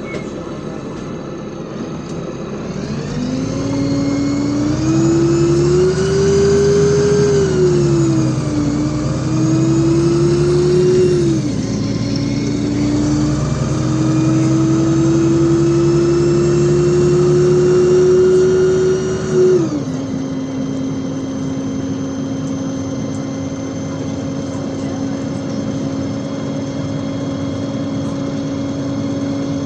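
LiAZ 5292.65 city bus engine and drivetrain pulling away: a steady idle, then a rise in pitch that dips twice as the gearbox shifts, a long steady climb, and a sudden drop in revs about 20 seconds in to a steady whine.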